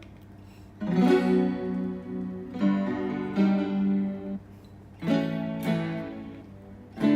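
Chords played on a guitar through a Roland GR-20 guitar synthesizer, in a guitar-like tone. A new chord is struck every second or two and left to ring out.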